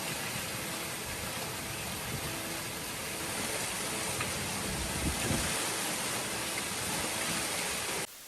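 Steady hiss and roar of a heavy rainstorm, with a few low thumps; it cuts off abruptly near the end.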